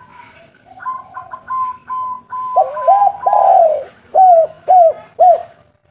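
Spotted dove (tekukur) cooing: a string of short, higher notes, then a longer coo and three short, loud coos about half a second apart near the end.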